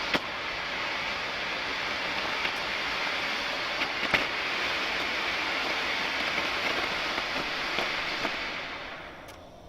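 Double-ended smoke firework hissing steadily as it pours out smoke, with a few faint crackles. Near the end the hiss fades and dies away as the smoke burns out.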